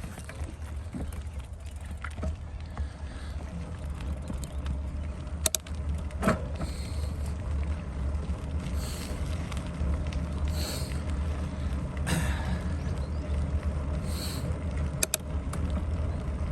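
Mountain bike being ridden along a wet path: steady low rumble of moving air and tyres, with a few sharp clicks and knocks from the bike along the way.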